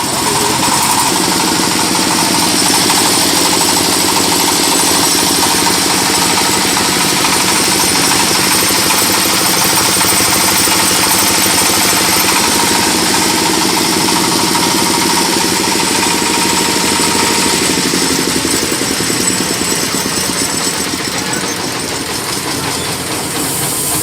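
Stationary diesel engine running steadily, driving a plastic shredder machine through its clutch.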